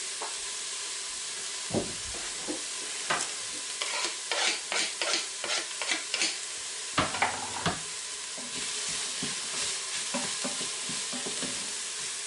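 Onions and grated carrots sizzling in hot oil in the stainless inner pot of an Instant Pot on sauté, a steady frying hiss. About three seconds in comes a run of quick knocks and scrapes, several a second for a few seconds, as the food is pushed off a plastic board into the pot and stirred.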